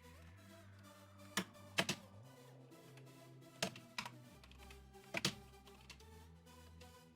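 A handful of sharp computer-keyboard key clicks in three short clusters, about a second and a half in, three and a half seconds in and five seconds in, over quiet electronic background music.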